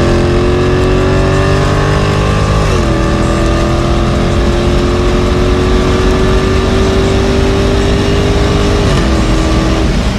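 Dodge Challenger's 6.4-litre 392 Hemi V8 under full throttle in a high-speed pull from about 80 to 130 mph, heard from inside the cabin. The engine note climbs slowly and drops with an upshift about three seconds in, then climbs again until a second upshift near the end.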